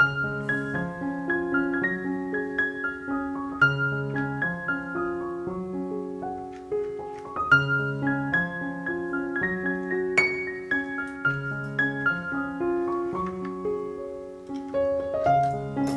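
Background piano music: a gentle, even run of notes over recurring low bass notes.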